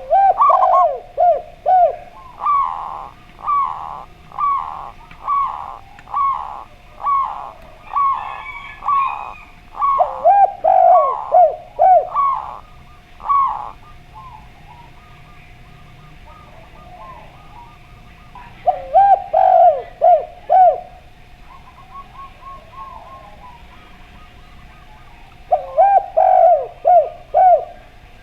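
Zebra dove and spotted dove cooing. Quick clusters of four or five falling coos come between a long run of evenly spaced single coos, over a faint steady hum.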